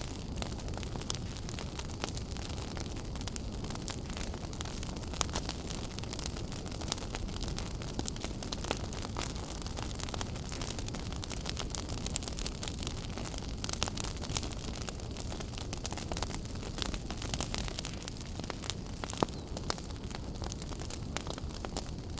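Wood fire burning in a fireplace: a steady low rumble and hiss of flames with frequent crackles and sharp pops, a few louder snaps scattered through.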